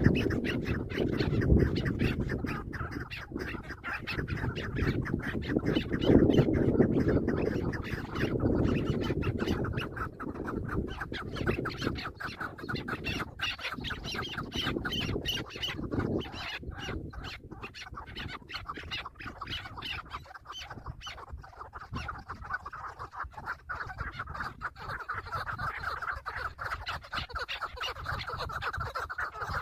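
Chukar partridges calling: a steady run of fast, repeated clucking notes. For the first half there is also a heavy low rumbling noise under the calls.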